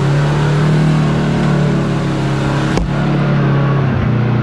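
Side-by-side UTV engine running steadily while driving a rough trail, with a sharp knock from the vehicle about three seconds in.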